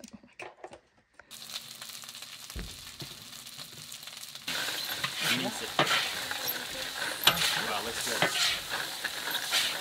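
Food sizzling in hot oil in a large pan on an outdoor stove, a steady hiss that gets louder about four and a half seconds in, with a few sharp clicks of utensils over it.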